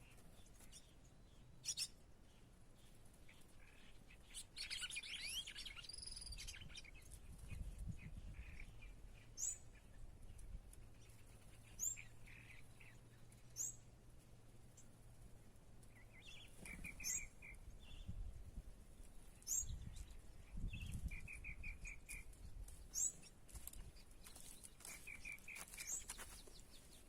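Small birds chirping: scattered short high chirps and a few quick trills of about five rapid notes, over an uneven low rumble.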